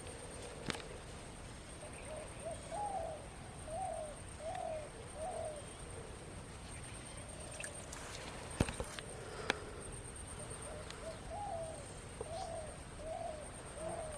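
A dove cooing in two phrases of four or five soft, rounded notes each, one starting about two seconds in and the other near the end. Between the phrases come a few sharp clicks.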